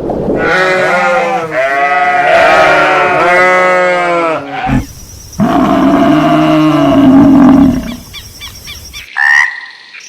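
An animal calling: a long wavering call lasting about four seconds, then a second, lower call of about two seconds, and two short higher calls near the end.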